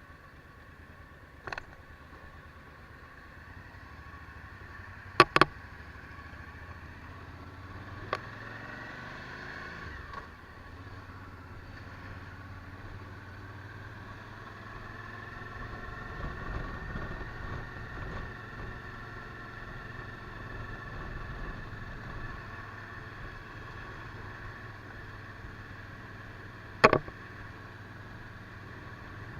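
Suzuki V-Strom DL1000's V-twin engine running steadily while the motorcycle is ridden, its pitch rising a little now and then. A few sharp clicks cut through it, two close together about five seconds in and one near the end.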